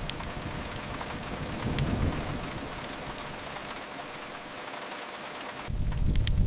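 Steady rain hiss with a few faint crackles from a fireplace. A deep low rumble fades away soon after the start and comes back abruptly near the end.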